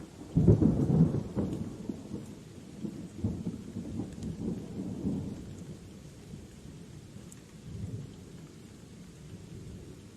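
Thunder rumbling over steady rain: a loud low crack-and-rumble about half a second in that rolls on for several seconds, then a smaller rumble later.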